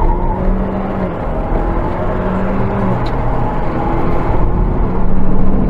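Car engine running with heavy road rumble, its pitch holding steady for stretches of a second or so.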